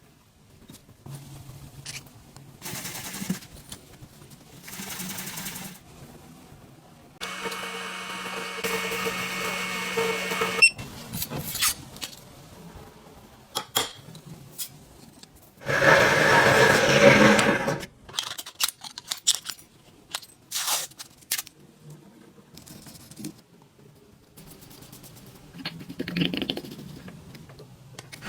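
Intermittent workshop noises from small tools: clicks and knocks, short mechanical bursts, a steady machine hum of about three seconds about a quarter of the way in, and a louder rough burst of about two seconds just past the middle.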